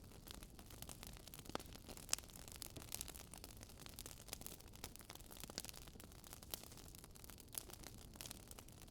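Wood fire crackling softly: irregular sharp pops and snaps over a faint steady hiss.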